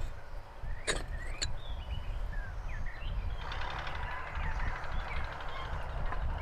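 Small birds chirping over a steady low wind rumble, with two sharp knocks about a second in; from about halfway a denser, busier chatter joins.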